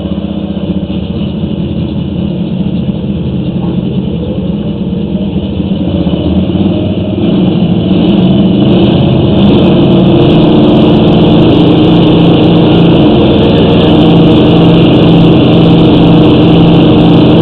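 Petrol engine of a sewer hydro-jetter, just started and running steadily. It gets louder about seven to eight seconds in as it is brought up to speed for jetting the line.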